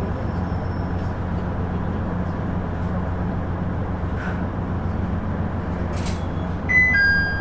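Onboard running noise of a KiHa 110-series diesel railcar: a steady low drone of the diesel engine and the wheels on the rails. A short burst of hissing air comes about six seconds in, and a two-note chime starts near the end.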